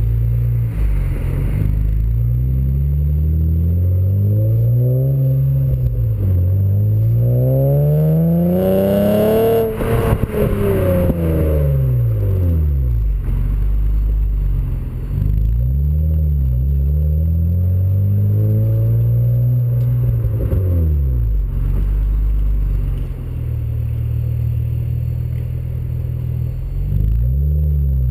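V6 engine breathing through an aftermarket exhaust (RV6 high-flow pre-cats, RV6 V3 J-pipe, TD cat-back), revving up and down again and again. One long climb to high revs comes about a third of the way in and then falls away. Several quicker rev rises and drops follow.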